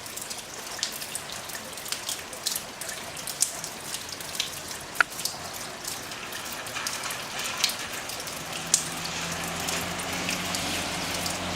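Heavy rain falling steadily, with separate drips from the eaves landing close by as sharp taps, the loudest about halfway through. A faint low hum comes in over the last few seconds.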